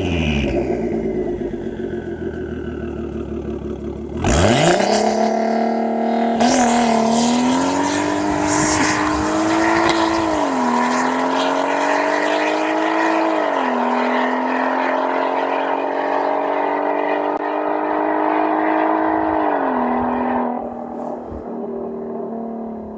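Turbocharged VR6 of a VW Mk5 R32 on a non-resonated cat-back exhaust. Its revs fall away at first, then about four seconds in it revs sharply for a hard launch. It accelerates with a rising note broken by three quick DSG upshifts, each a sudden drop in pitch, and goes quieter near the end.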